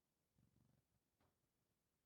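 Near silence, broken only by a faint low rumble about half a second in and a single faint click a little after.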